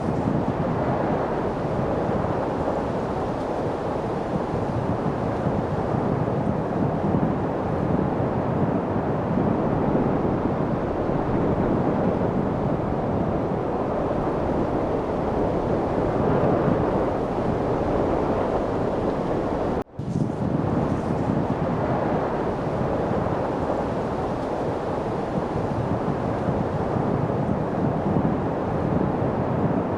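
Steady wind noise, an even rushing hiss without pitch, dropping out for an instant about twenty seconds in.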